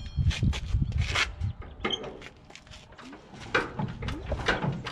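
Irregular clicks and knocks of hands and metal parts being worked around an old tractor engine while its magneto is checked for spark, which turns out to be dead.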